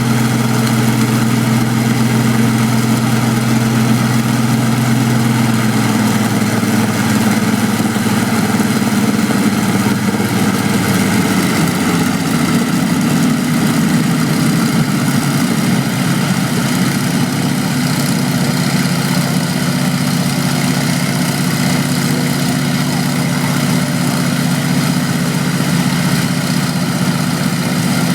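Vintage aero engines, one a Rolls-Royce, running steadily. Between about six and sixteen seconds in, the engine note shifts as the speed changes, then settles at the new pitch.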